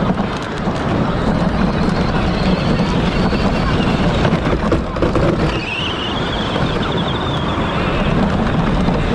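Power Wheels ride-on toy car racing, heard from on board: steady electric motor and drivetrain running at speed, with wind noise on the microphone.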